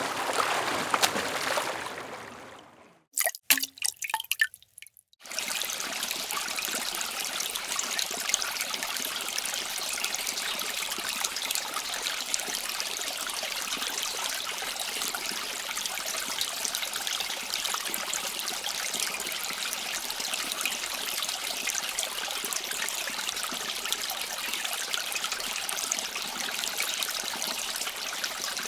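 Running water trickling steadily. It sets in about five seconds in, after a fading sound and a few short clicks or drips.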